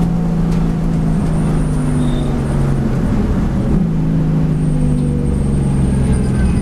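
V8 race car engine running hard on track, its note mostly steady, with two shifts in pitch: one about a second in and one near four seconds.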